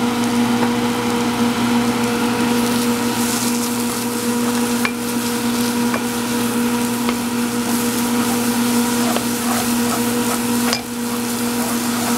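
Spiced soya masala frying in a non-stick pan, sizzling as it is stirred and scraped around with a wooden spatula, with small scrape clicks, over a steady hum.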